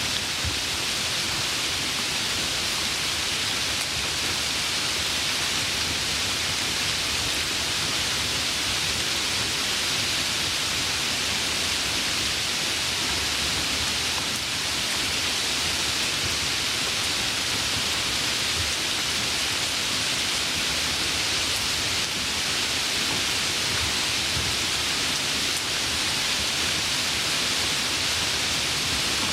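Steady rain falling, an even, unbroken hiss that stays the same throughout.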